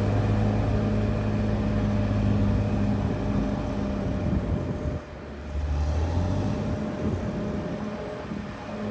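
Caterpillar D6R XL bulldozer's diesel engine running steadily, its note briefly dropping lower and quieter about five seconds in before picking back up.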